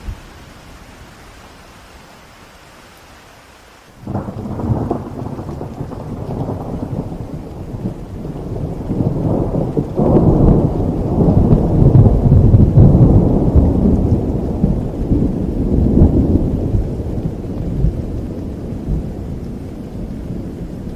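Steady rain, then about four seconds in a clap of thunder opens into a long rolling rumble. The rumble builds, is loudest in the middle, and slowly dies down under the continuing rain.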